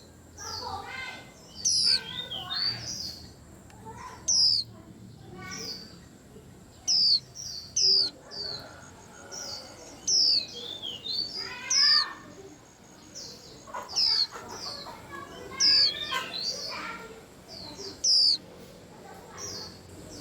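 White-eyes (vành khuyên) calling and twittering: loud, sharp, high notes that fall in pitch repeat about every one to two seconds, with softer quick twittering runs between them.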